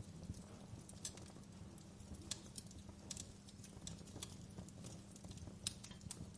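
Wood fire burning in a fireplace: a low steady rumble with irregular sharp crackles and pops from the burning logs.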